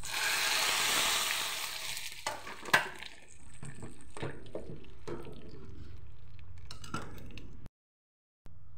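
Tempering of drumstick leaves and red chillies sizzling in hot oil, loud for the first two seconds and then dying down. A sharp metal clink about 2.7 s in is followed by a steel ladle stirring and knocking in a pot of dal.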